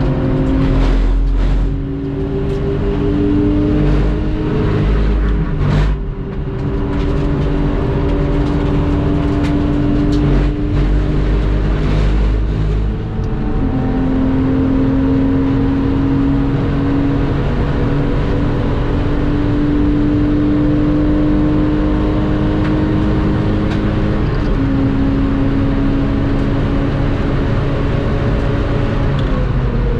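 Lexus IS200's 2.0-litre straight-six engine pulling hard at full throttle, its pitch climbing slowly through long pulls in high gear. It drops sharply at two upshifts, about 13 and 24 seconds in. Near the end the pitch falls away as the car slows for a corner.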